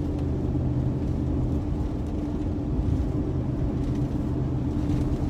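Steady road noise inside a car cruising at about 50 mph: a low rumble of tyres and engine with a steady hum.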